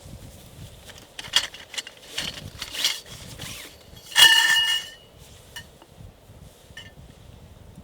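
Metal objects being handled, with clinks and scrapes and one clear ringing metallic clink a little past the middle that dies away within a second.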